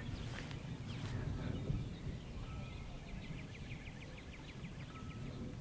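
A bird trilling faintly: a rapid, even series of short high notes starting about two and a half seconds in and lasting about two seconds, over a low steady rumble of wind.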